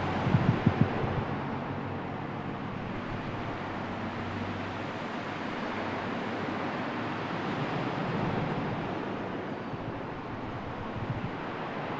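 Steady rushing of wind and sea surf, with a few low thumps about half a second in and again near the end, like wind buffeting the microphone.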